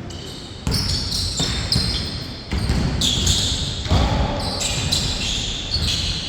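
Basketball bouncing on a hard indoor court during play, irregular thuds with echo, mixed with high-pitched sneaker squeaks.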